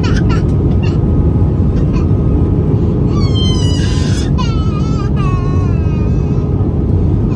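Steady rumble of airflow and CFM56 engine noise inside the cabin of an Airbus A320 in flight, with an infant crying on and off, loudest about three to four seconds in.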